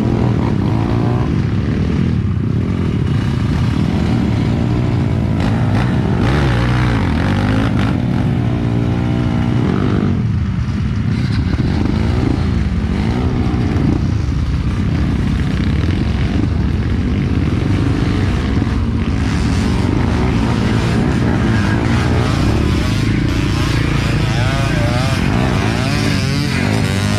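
Dirt-bike engine running under load on a trail ride, its revs rising and falling over and over as the rider works the throttle.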